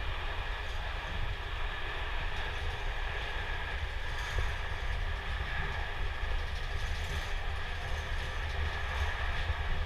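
Steady running rumble of a moving passenger train heard from inside the carriage, with a faint steady hum higher up.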